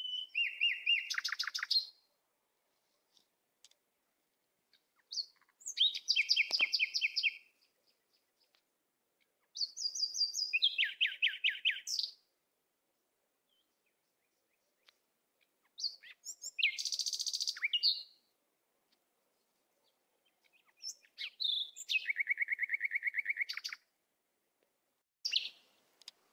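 A songbird singing in repeated phrases about two seconds long, each a fast trill of high notes, some stepping down in pitch, with pauses of two to four seconds between phrases.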